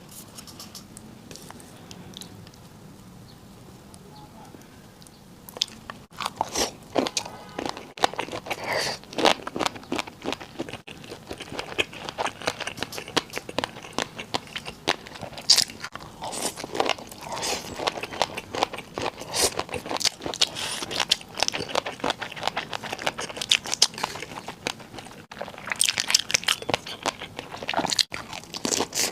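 Close-miked biting and chewing of crunchy food, a dense run of irregular crunches. It starts about five seconds in, after a quiet stretch.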